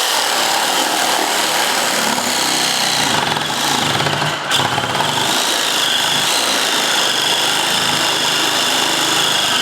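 Cordless power tool running continuously with a steady, slightly wavering high whine, then cutting off abruptly near the end as its battery runs down.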